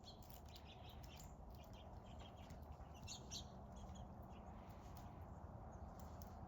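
Small birds chirping faintly, short scattered chirps in quick clusters, over a low steady background hum.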